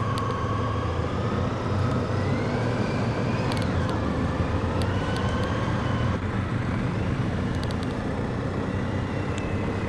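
BMW R1250GS boxer twin engine running under way, its pitch climbing, dropping back about three and a half seconds in, then climbing again and levelling off, over steady wind and road noise heard from inside the rider's helmet.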